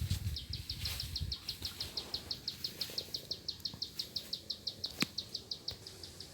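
A fast, even run of short, high, downward-slurred chirps, about seven or eight a second, going on without a break. There is low rumble in the first second and a single sharp click about five seconds in.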